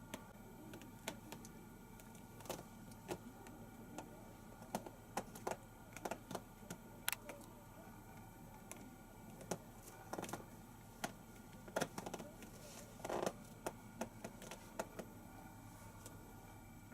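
Kittens moving about and playing, making scattered light taps and clicks at an uneven pace, with a short scuffling rustle about thirteen seconds in.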